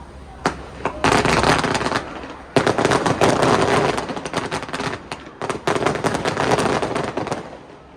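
Fireworks crackling: two single pops, then dense rapid crackling in several bursts that dies away near the end.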